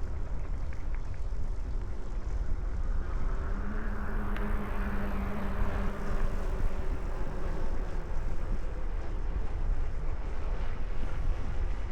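Wind rumbling on the microphone of a moving bicycle, with the hum of a passing motor vehicle swelling and fading in the middle.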